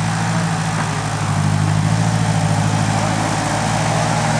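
Tractor engine running steadily with a fast, even low pulse.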